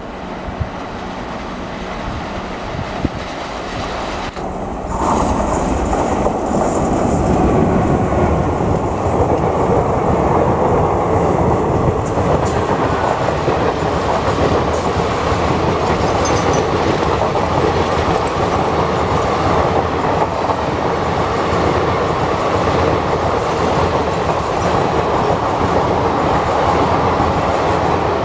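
Electric-hauled passenger express train approaching. From about four and a half seconds in it is much louder: the steady rumble and clickety-clack of its coaches passing close by.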